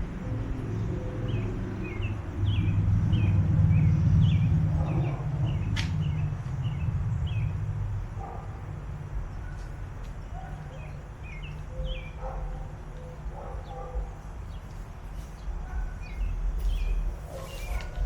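Small birds chirping repeatedly, with a low rumble that swells for several seconds near the start and fades, and one sharp click about six seconds in.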